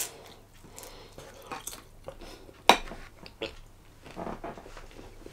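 Close mouth noises of someone chewing a bite of crispy-skinned barbecue chicken thigh, with small wet clicks and a sharp click about two and a half seconds in.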